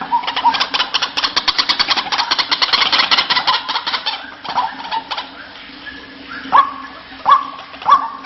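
White-breasted waterhen (ruak-ruak) calling. A fast chattering run of notes, about nine a second, fades out after about four seconds. Near the end come about three louder separate calls, each swooping up to a held note, roughly 0.7 s apart.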